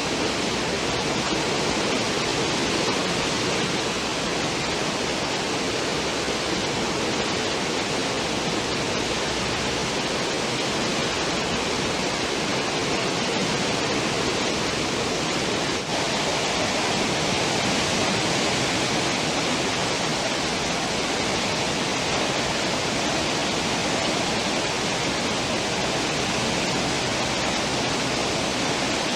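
A cruise ship's wake: the steady rush of churned water behind the stern, one even, unbroken hiss.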